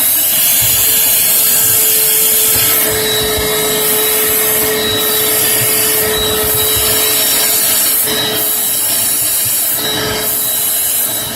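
Water running hard from a faucet into a sink while a removed refrigerator part is scrubbed under it, the rushing noise dipping briefly every second or two.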